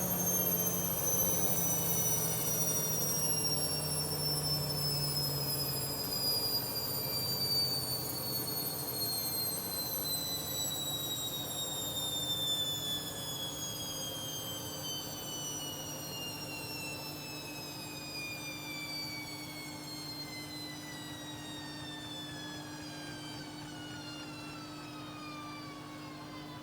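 Hoover Dynamic Next washing machine's drum slowing down after the final spin: the motor's high whine falls steadily in pitch, over a low hum that gets quieter about halfway through.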